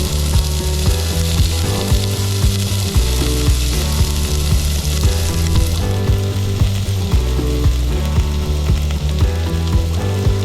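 Naan dough sizzling as it cooks over a wood campfire, a steady hiss with scattered crackles. Loud low humming tones underneath shift in pitch every half second or so.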